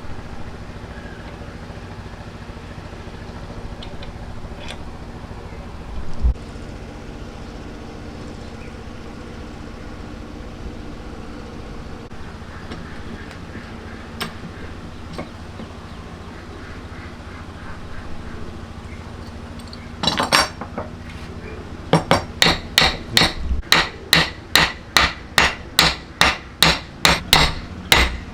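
Hand tool hammering in woodworking: after a long stretch of low steady background hum with a few isolated knocks, a short flurry of strikes comes about two-thirds of the way in, followed by steady, evenly paced blows at about two a second.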